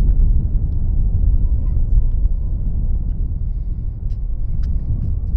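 Strong wind buffeting the microphone, a constant low gusting rumble, with a few faint high bird chirps above it.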